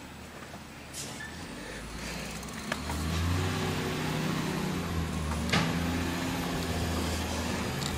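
Garbage truck engine running low, then rising in revs about three seconds in and holding at a steady higher speed, with a couple of sharp knocks.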